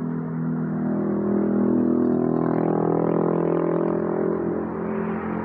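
A motor vehicle passing, its engine hum swelling to a peak about two seconds in and then easing off.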